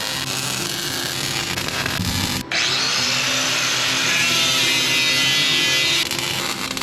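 An electric power tool starts about two and a half seconds in, its pitch rising as it spins up, then runs steadily for a few seconds over background music.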